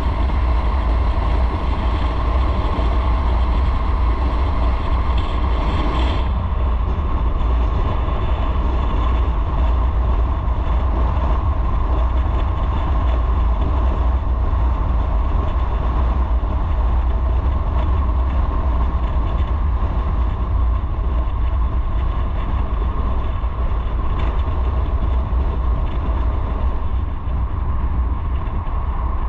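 Motorcycle under way on the road: steady engine and road noise with heavy wind buffeting on the microphone.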